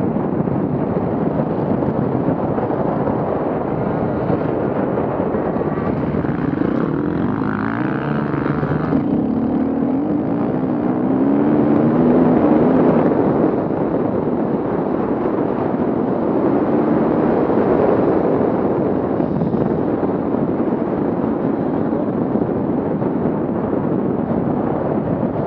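Off-road vehicle engines running and revving, the pitch swinging up and down a few times and loudest about halfway through.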